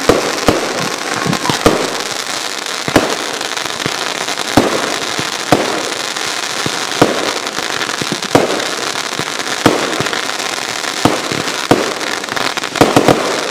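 Aerial fireworks launching and bursting: a string of sharp bangs about every second or so, with a quick run of several bangs near the end, over a continuous hiss.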